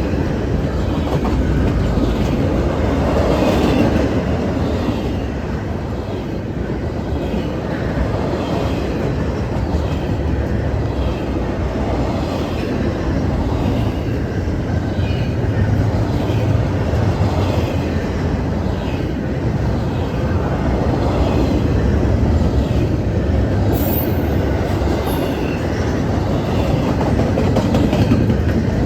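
CSX intermodal freight train rolling steadily past at close range, a continuous rumble with a repeating clatter of wheels over the rail joints.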